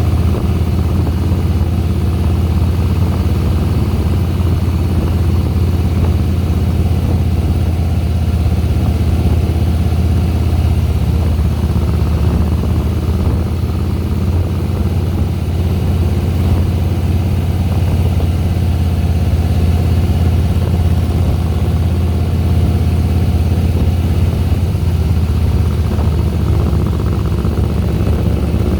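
2010 Harley-Davidson Softail Deluxe's V-twin engine running at a steady low note while the motorcycle is ridden, with no marked revving.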